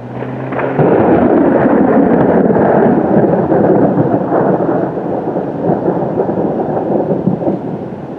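A clap of thunder cracks sharply just under a second in, then rolls into a long, loud rumble that slowly fades over the next several seconds.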